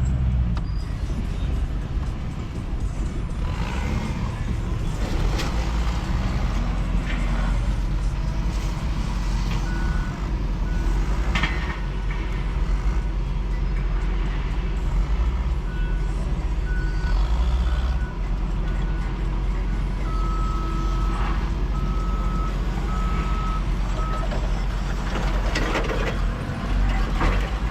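Heavy vehicle engine running with a steady low rumble, while backup alarms beep in the yard: a fainter, higher-pitched series about ten seconds in, then a louder, slightly lower series about twenty seconds in, roughly one beep a second.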